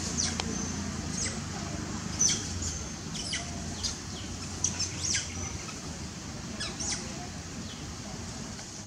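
Small birds giving scattered short, high chirps, each falling quickly in pitch, over a steady low outdoor background rumble.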